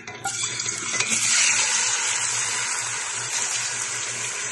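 Raw chicken breast cubes, still wet from washing, sizzling as they drop into hot cooking oil in a frying pan. The sizzle starts abruptly, swells to its loudest about a second and a half in, then settles into a steady hiss.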